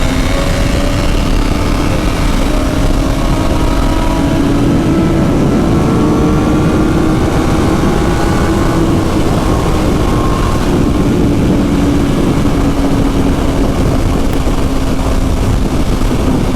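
Suzuki GSX-R750 inline-four engine at a steady cruise, its pitch rising slightly and easing off, with wind rushing over the rider's microphone.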